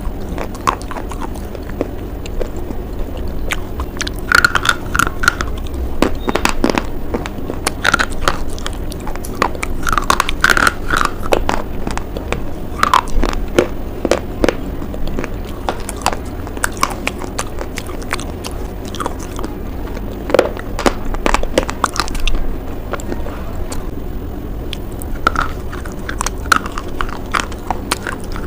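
Close-up biting and chewing of a hard white bar, with many sharp, irregular crunches and crackles.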